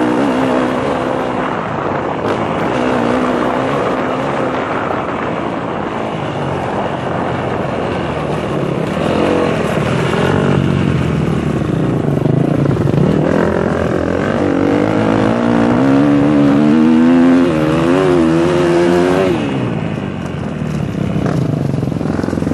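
KTM 250 SX-F four-stroke single-cylinder motocross engine under way, its pitch rising and falling as the throttle is worked. Late on, the engine note climbs with a wavering pitch for several seconds, then drops sharply as the throttle shuts off.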